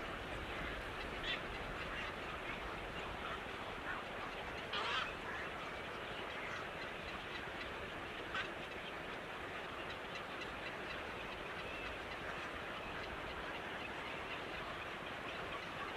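A few short bird calls over a steady hiss of background noise. The loudest call comes about five seconds in.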